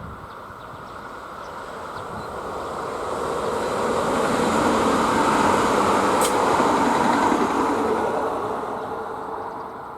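A train passing by on the line: its rumble and rushing noise build up, are loudest around the middle, then fade away as it goes. There is a brief sharp high click or squeal as it passes.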